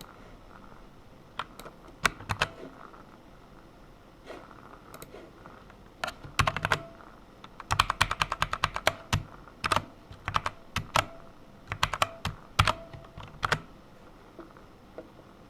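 Typing on a computer keyboard: a few scattered keystrokes, then quick runs of typing for several seconds that stop shortly before the end.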